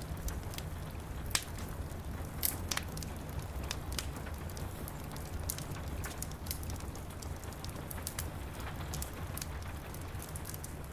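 Steady rain with a low, even rumble, mixed with a wood fire crackling: many small, irregular sharp pops scattered throughout.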